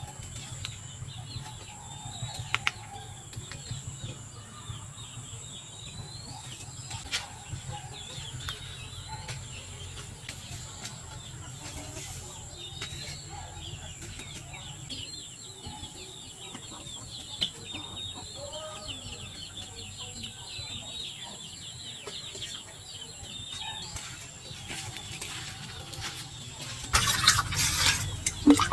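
Chickens clucking with many short high chirps, and a few sharp knocks. Near the end a loud splashing of water starts.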